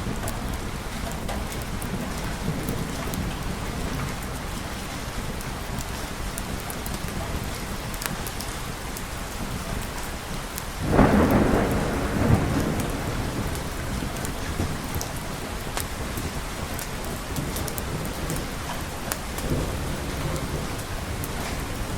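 Steady rain falling, with a sudden thunderclap about halfway through that rumbles on and fades over a few seconds.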